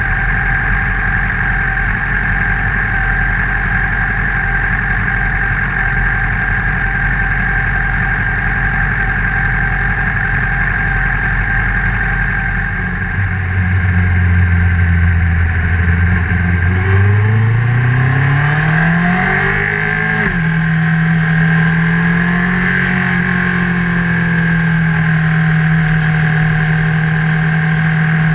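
Honda CBR1000RR inline-four engine picked up by a camera mounted on the motorcycle. It runs steadily for about half the time, then revs up with a rising pitch, drops sharply at a gear change, and settles into steady running at a higher pitch.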